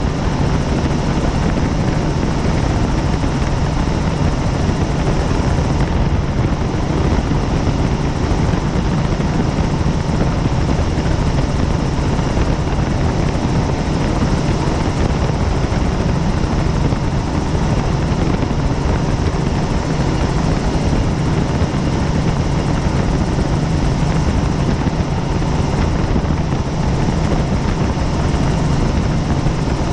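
Helicopter in cruising flight, heard from aboard: the rotor and engine noise runs steadily and loud, with a low steady hum underneath and no change in pitch.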